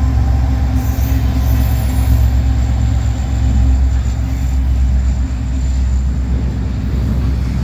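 Manifest freight train rolling past, a loud steady low rumble, with a humming tone that fades out about three seconds in.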